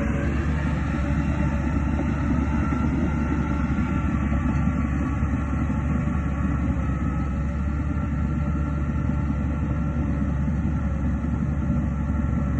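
Heavy earthmoving machinery running steadily: a deep, even diesel rumble with a faint steady whine above it.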